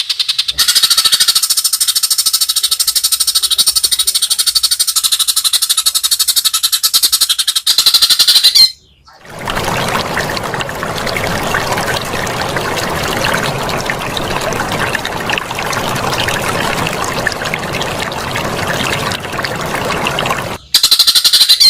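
White-rumped shama (murai batu) giving a long, fast, rapidly repeated rattling call for about eight seconds. It then gives way to about eleven seconds of steady rushing noise like pouring or splashing water.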